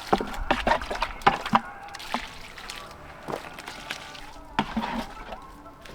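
Water sloshing and splashing, with a quick run of sharp knocks and clicks in the first two seconds and a few more later.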